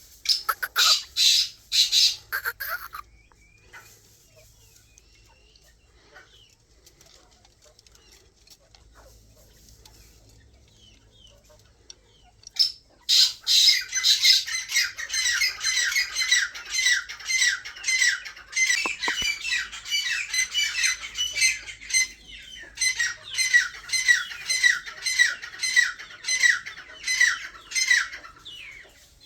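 Quail calling: a burst of shrill calls at the start, a quiet pause, then a long run of rapid, repeated high calls, each sweeping down in pitch, from about halfway in until shortly before the end.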